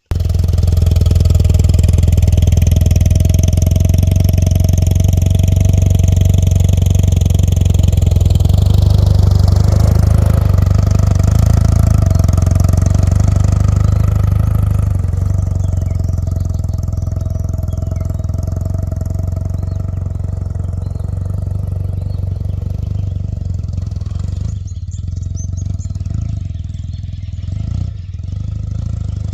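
BMW R100RS air-cooled flat-twin engine running steadily under way, with a strong low drone and rushing noise over it. The level eases a little after about halfway, with two brief dips near the end.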